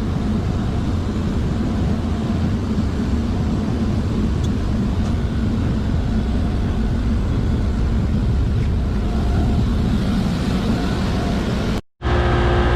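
Steady mechanical drone of machinery running in a chiller plant room, such as the cooling-water pump motors. Near the end it breaks off abruptly and a different steady hum with several held tones takes over.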